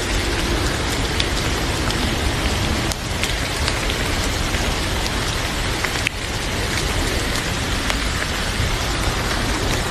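Heavy rain falling steadily, a dense even hiss, with a few sharp clicks scattered through it.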